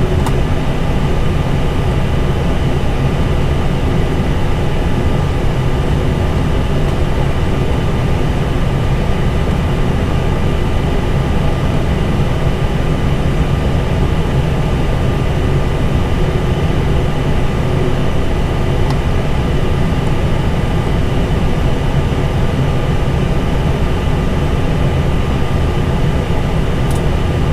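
Steady cockpit noise of an Airbus A320 creeping into the gate at idle thrust: a low engine rumble under air-conditioning hiss, with a few faint steady tones.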